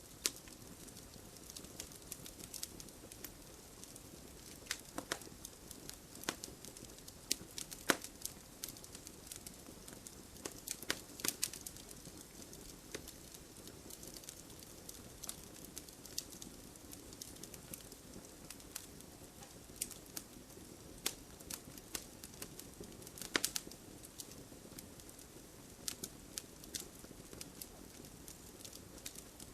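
Fire in a fireplace crackling: sharp pops come at irregular intervals over a soft, steady hiss. The loudest pops fall about eight seconds in and again around twenty-three seconds.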